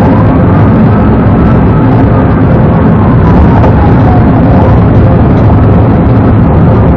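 Police car at high speed: loud, steady engine and road noise, with a siren's slow wail rising and falling under it.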